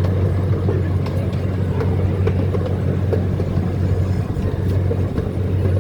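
Zoo train running steadily, a constant low engine hum with a few faint clicks over it.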